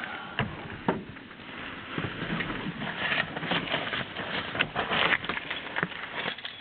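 Irregular knocks, clicks and rustling of a person climbing up into a pickup truck's cab.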